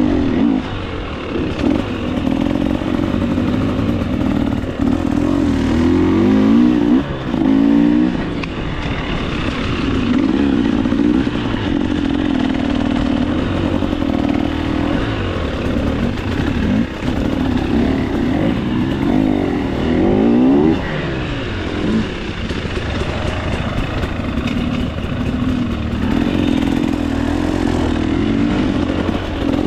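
A KTM 300 XC-W two-stroke dirt bike engine revving up and down over and over as the rider works the throttle on tight trail, with brief rising and falling pitch sweeps between steadier stretches.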